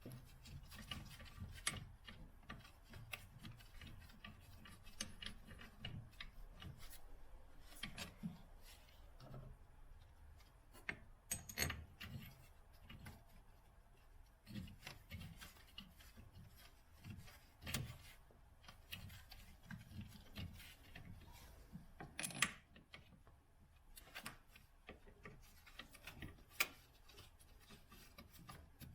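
Faint, irregular clicks, knocks and rubbing of hand tools working on a car's engine-mount fittings, with a sharper knock about halfway through and another about three quarters of the way in.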